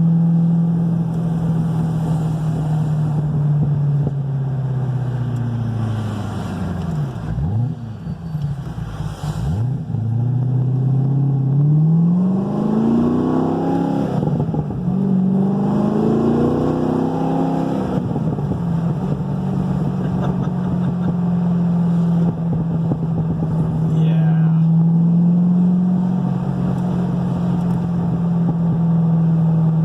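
Cammed LS7 V8 of a 2010 Corvette Z06 running through a new exhaust while driving. A steady drone drops off sharply twice about a quarter of the way in, then revs rise and fall twice before it settles back into a steady cruise. The exhaust has no rattle and no vibration.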